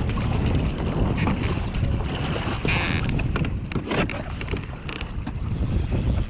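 Wind buffeting the microphone on an open-ocean kayak, with water splashing and slapping against the hull in many short knocks.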